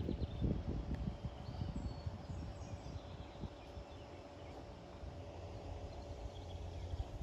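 Quiet outdoor background: a low rumble with a few soft knocks in the first second, and faint bird chirps.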